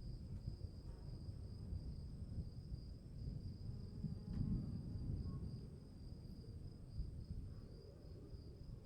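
Crickets chirping in a steady, high-pitched, slightly pulsing trill, over a louder low rumbling noise that swells about halfway through.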